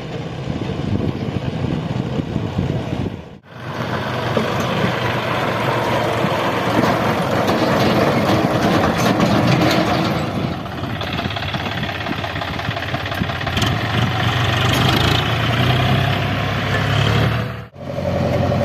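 Heavy diesel engine running at idle and working speed. The sound breaks off abruptly twice, about three seconds in and near the end.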